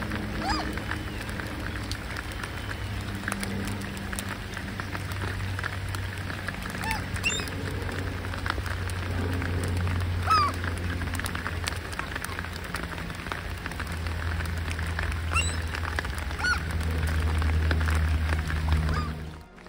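Rain pattering on a lake surface over a steady low rumble, with a few short calls from water birds scattered through. The sound cuts off suddenly at the very end.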